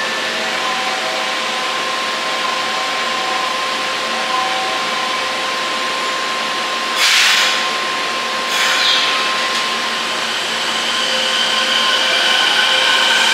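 Shinkansen train running noise: a steady rush with a faint humming whine, two short louder rushes about seven and eight and a half seconds in, and a whine that rises and then holds near the end.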